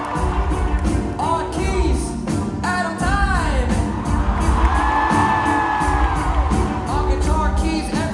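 Live band music heard from the audience at a concert: a steady beat and bass under a melody that slides up and down in pitch, with some whoops from the crowd.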